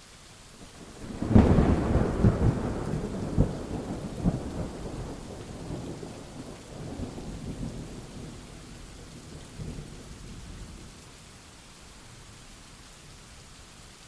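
Thunder over steady rain: a loud clap breaks about a second in and rumbles on in several cracks. It fades away over about ten seconds, leaving the rain hiss alone.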